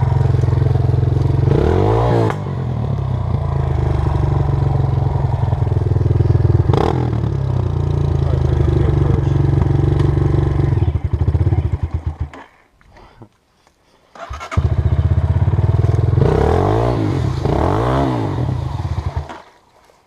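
Honda CRF230 dirt bike's four-stroke single-cylinder engine running and being revved a few times, then dying out about 12 seconds in. It fires up again a couple of seconds later, revs twice, and cuts out again just before the end.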